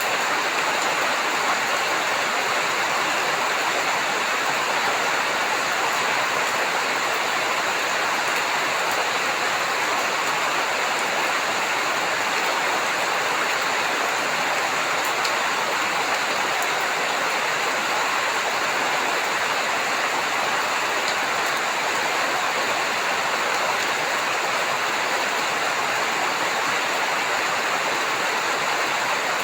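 Rain falling steadily, an even hiss with no change in level.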